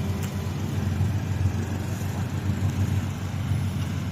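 Heavy diesel truck engine running steadily on the road, a low even drone.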